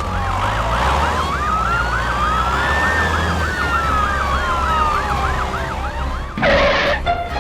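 Emergency-vehicle siren: a slow rising-and-falling wail overlapped by a fast warbling yelp. A short, loud burst of hiss comes near the end.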